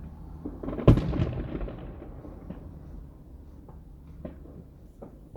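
A firework shell bursting with one loud boom about a second in, followed by a fading rumble and a few smaller scattered pops.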